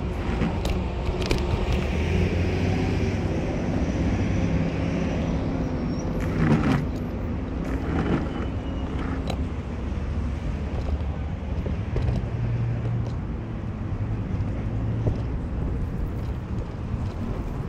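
Car driving: steady engine and road noise, with a few short knocks or bumps, the loudest about six and a half seconds in.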